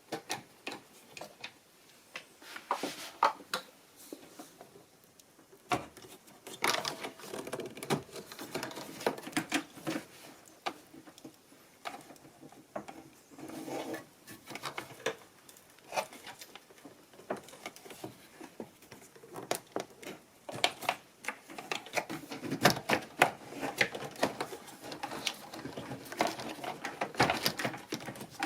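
Irregular clicks, taps and rattles of plastic and metal parts being handled and worked with tools while the washing machine's recirculating pump assembly is taken apart.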